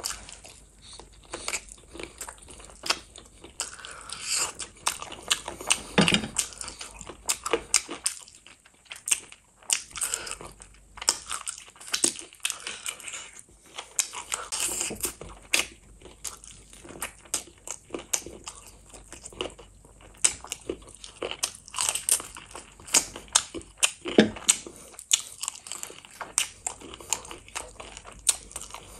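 A person chewing and biting spicy chicken feet and rice with the mouth open, many short wet clicks and smacks in an irregular stream.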